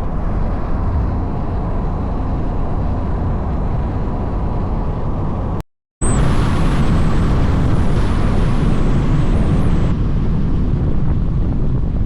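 Mazda MX-5 on the move: steady engine, road and wind noise. About halfway through it cuts out to silence for an instant, then carries on with a faint high whine for a few seconds.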